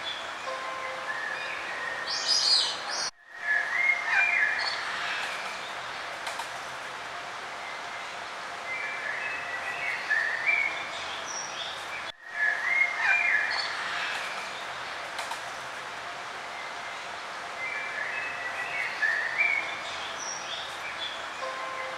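Several birds chirping and singing in short calls and trills over a steady hiss of outdoor background noise. The sound cuts out for a split second twice.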